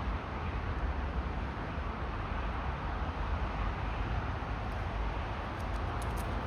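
Howling wind buffeting the microphone: a steady rushing rumble. Near the end come quick, crisp clicks of a squirrel gnawing at a peanut shell.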